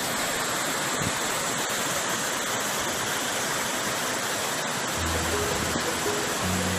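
Steady, even rush of a waterfall. Background music with low held bass notes comes in over it about five seconds in.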